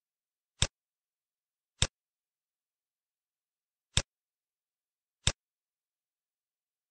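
Four single computer mouse clicks, in two pairs a little over a second apart, with dead silence in between.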